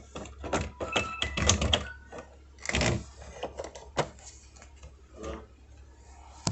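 Plastic clicks and knocks from handling a mini dehumidifier after its water tank is slid back in. A quick run of clicks comes first, then one heavier thunk just before the three-second mark, then a few single clicks.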